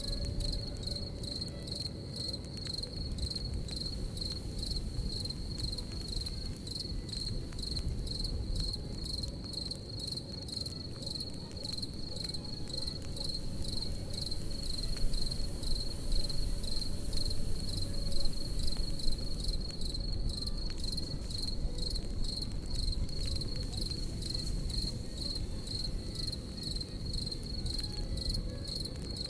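Crickets chirping in a steady, even pulse over a crackling campfire, whose pops and snaps grow louder about halfway through.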